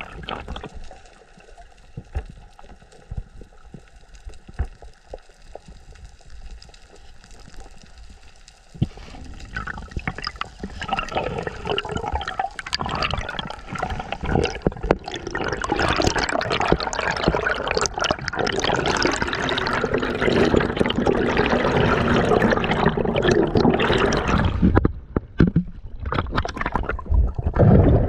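Water sloshing and bubbling, with scattered small clicks at first, growing much louder about nine seconds in and easing off near the end.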